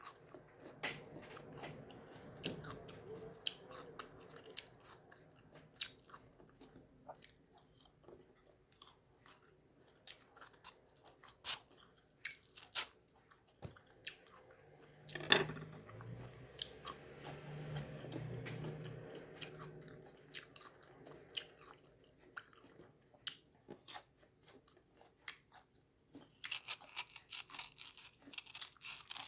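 Close-up mouth sounds of someone eating firm, crunchy mango: bites and chewing with irregular wet clicks and crunches.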